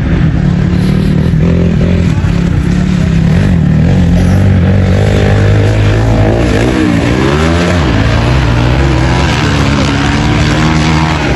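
Dirt bike engines running loud and revving, the pitch rising and falling a few times about two-thirds of the way through.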